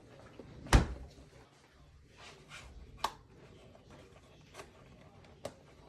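A few sharp clicks and taps of handling noise: the loudest about a second in, others near three seconds and near the end, with fainter ticks between.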